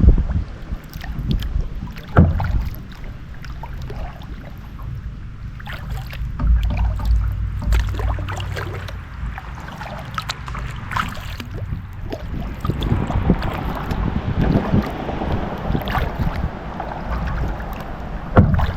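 Kayak paddling: irregular paddle splashes and drips in the water, with scattered knocks, over a low wind rumble on the microphone. A louder thump comes at the very start and again near the end.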